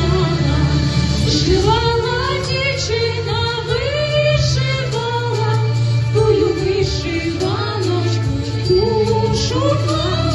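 Women singing a drawn-out, gliding melody of a Ukrainian song over an accompaniment of held low chords.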